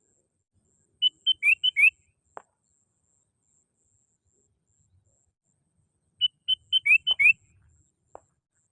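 Sooty-headed bulbul (kutilang) calling, a recorded lure call: two short bright phrases about five seconds apart, each a quick run of clear notes ending in two rising whistles, with silence between.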